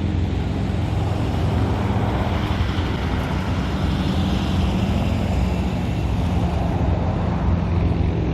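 Steady motor-vehicle rumble with a low engine drone, unchanging throughout.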